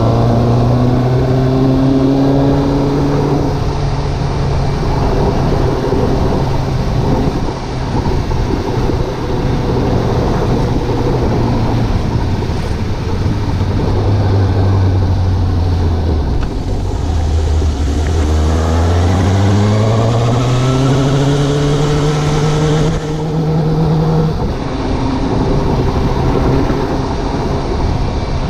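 Suzuki GSX750 motorcycle's inline-four engine heard on the move, running at a steady pitch. About two-thirds through, the pitch drops as the bike eases off and slows. It then climbs steadily under acceleration, with a broad rushing noise, before settling at a steady pitch again.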